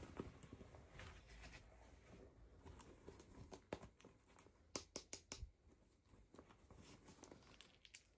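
Faint handling noises of toy packaging: light rustling with scattered small clicks, including a quick cluster of sharp clicks about four to five seconds in.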